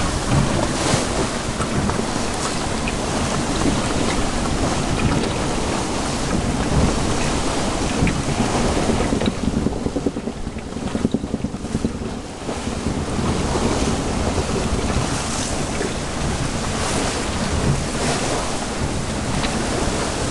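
Wind buffeting the microphone over the rush and splash of water around a sailboat under sail. It eases for a couple of seconds about ten seconds in.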